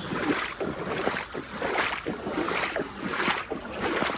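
Legs wading through knee-deep floodwater, a sloshing swish with each stride, coming at a steady walking pace of a little under two a second.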